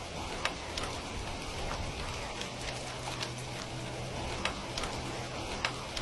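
Steady rain hiss mixed with a crackling fireplace, with scattered sharp pops and crackles at irregular intervals over the even rain noise.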